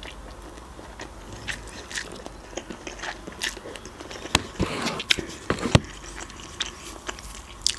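Close-miked mouth sounds of eating instant noodles: slurping and wet chewing with scattered sharp clicks, a few louder ones a little past the middle.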